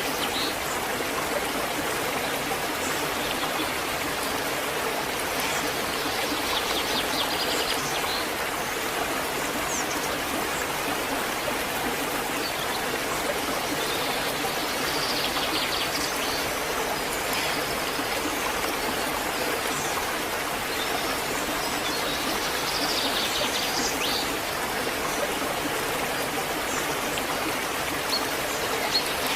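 Waterfall rushing steadily, an even roar of falling water, with a few short high bird chirps now and then above it.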